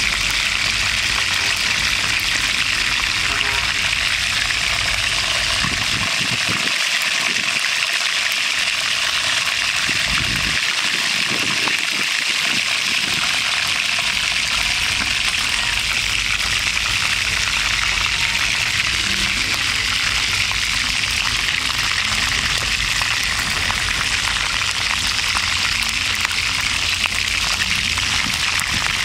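Chicken frying in hot oil in a pan, a steady sizzle with fine crackling.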